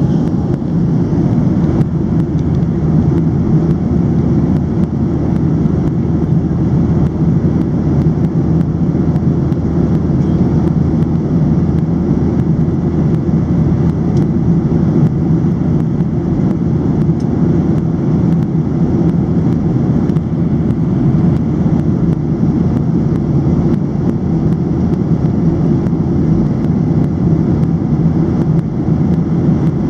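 Steady low roar of a Boeing 737-700's CFM56-7B jet engines and rushing air, heard inside the passenger cabin, holding an even level throughout.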